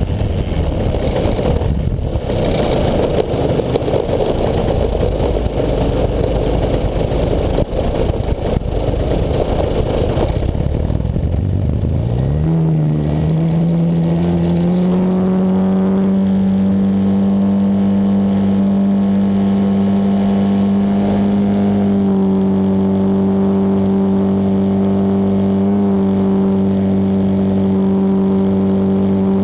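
Desert Aircraft DA-100 twin-cylinder two-stroke gas engine of a large RC Extra 260 aerobatic plane, heard from an onboard camera. For about the first ten seconds the engine is buried in rough rushing noise; about twelve seconds in a clear, steady engine drone comes through, rising slightly in pitch and then holding.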